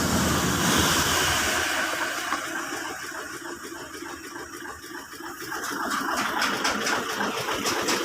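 8M21 diesel engine with a hard-starting, low-power, black-smoke fault, running with a rushing noise that dies away over the first few seconds. It then builds again with a rapid, even clatter in the second half.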